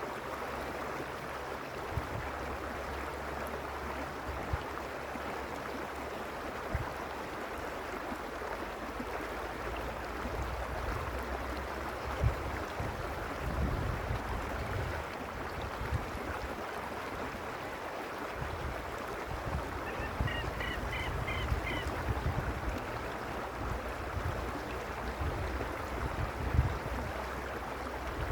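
Mountain stream rushing steadily, with irregular low rumbling bumps now and then. About twenty seconds in, a bird gives a quick run of short, high, repeated calls.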